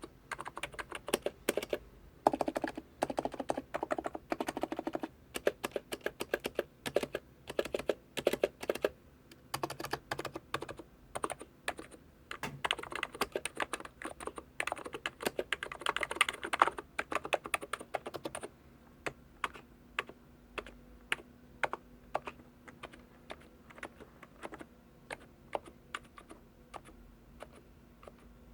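Typing on an ABKO Hacker K985P v2 electro-capacitive (non-contact) keyboard with 45 g keys, in quick runs of keystrokes with short pauses. After about 18 seconds the strokes become sparser, single key presses.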